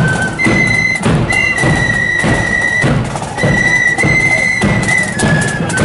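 Marching flute and drum band playing: flutes carry a high tune in long held notes over regular drum beats.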